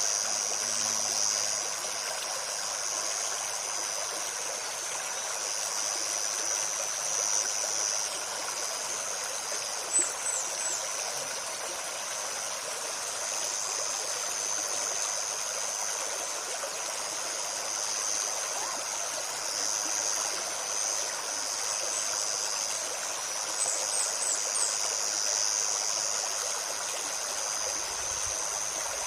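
Shallow river running over stones, a steady babbling rush. Behind it is a continuous high insect or cicada drone that swells and fades, with a few brief high chirps about ten seconds in and again near the end.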